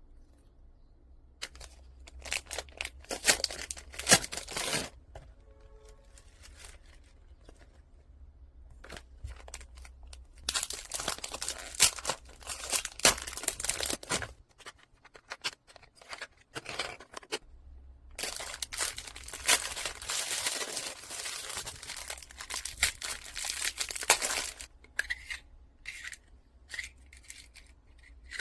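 Packaging being torn open and crinkled, in several bursts of crackly rustling with short quiet gaps between them.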